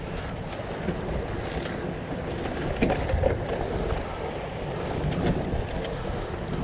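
Wind blowing over the microphone and water washing along the hull of a sailboat under way, with a few light knocks now and then.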